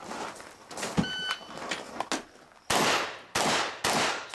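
A shot timer beeps once, briefly, about a second in. Then a shotgun fires three loud shots about half a second apart, starting near the end.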